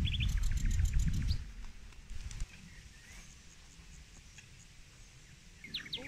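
Small birds chirping, with a quick run of high notes about half a second in and a few sweeping calls near the end. A low rumble on the microphone covers the first second and a half.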